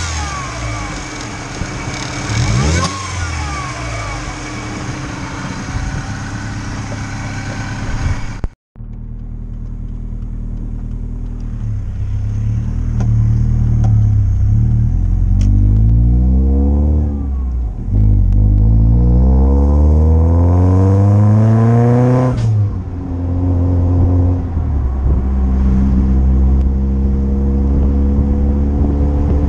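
Supercharged Mazda Miata 1.6 four-cylinder engine, first revved from the engine bay, then heard from inside the open cabin accelerating hard. Its pitch rises in long pulls with a gear change between them, then drops sharply as the throttle is lifted about two-thirds of the way through.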